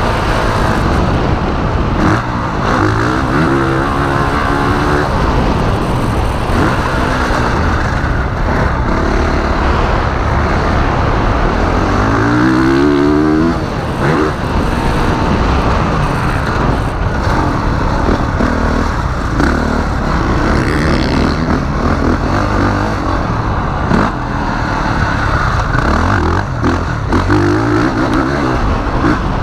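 2021 Honda CRF450R's 450cc single-cylinder four-stroke engine under hard riding, running on map 3, revving up and down as the rider shifts and rolls on and off the throttle. There is a long climb in revs shortly before the halfway point, which drops away sharply.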